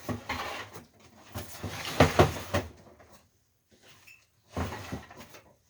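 A sliding part of a window air conditioner being worked back and forth by hand: scraping and rubbing with a few sharp knocks about two seconds in, then a pause and another short scrape near the end. The part still rubs as it slides.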